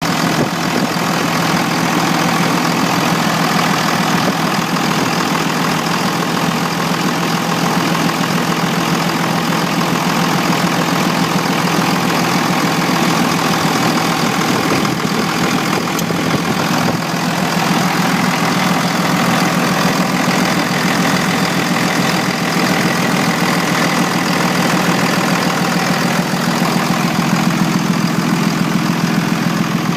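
An engine running steadily at idle, a loud, even, rapidly pulsing drone that barely changes.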